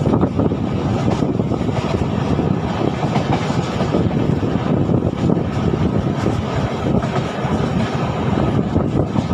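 Passenger train coach running along the track, heard from aboard: a steady loud rumble of wheels on rails.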